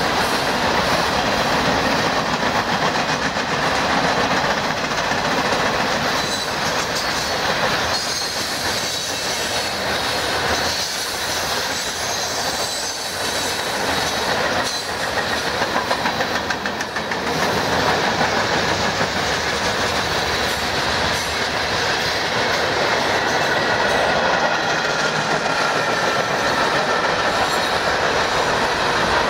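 Freight cars of a long manifest train rolling past at speed: steady rumble and clatter of steel wheels on the rails, with occasional knocks and a thin, high wheel squeal running under it.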